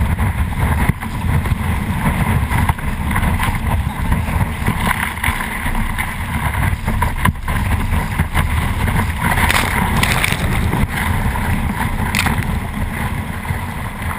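Wind buffeting the microphone in a steady low rumble, over rushing surf water while kayak surfing, with a few sharp hits.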